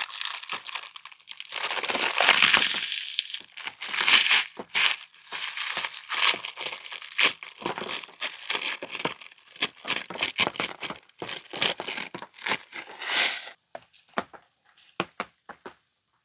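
Crackers being crushed and crumbled, with their plastic wrapper crinkling, in a long crackly run that stops suddenly near the end, leaving a few small clicks.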